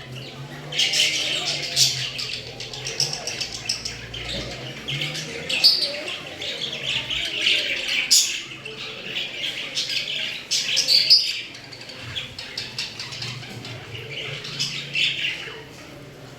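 Parrots squawking and chirping in a rapid, busy stream of shrill calls, starting about a second in and dying away near the end.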